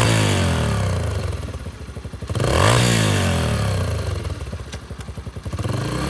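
Yamaha TT-R125E's single-cylinder four-stroke engine revved twice with quick throttle blips. Each rev climbs fast and then falls slowly back toward idle, the second about two and a half seconds in, before settling to a steady idle near the end.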